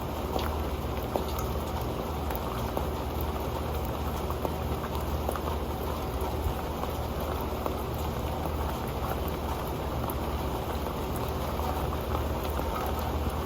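Rain falling on an old pan: a steady patter of many small drop ticks over a continuous rain hiss.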